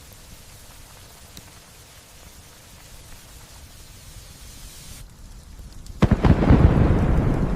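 Steady light rain hissing, then about six seconds in a sudden loud thunderclap that opens with sharp cracks and rolls on as a deep rumble.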